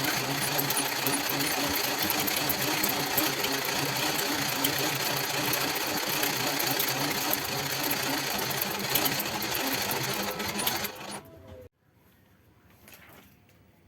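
Small electric motor running steadily with a dense whirring, then stopping abruptly about eleven seconds in, leaving only faint handling sounds.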